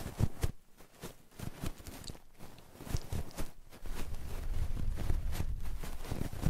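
Close-microphone ASMR trigger sounds: irregular soft taps and rubbing right on the microphone, with a steadier low rubbing rumble in the second half.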